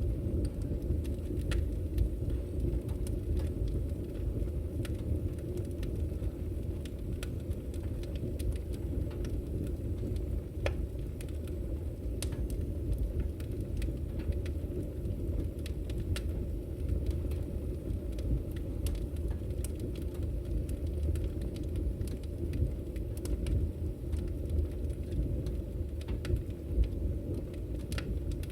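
Firewood burning in a camping wood stove: a steady low rumble of the fire with scattered sharp crackles and pops from the burning logs.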